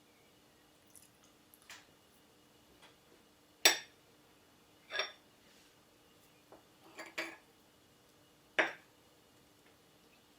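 Dishes and cutlery being handled: four sharp clinks, a second or two apart, with a few fainter taps between them, over a faint steady hum.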